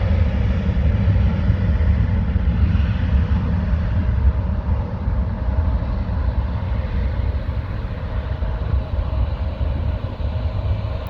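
Jet airliner's engines at takeoff power, a loud, steady low roar with a faint high whine at first, slowly fading as the aircraft climbs away.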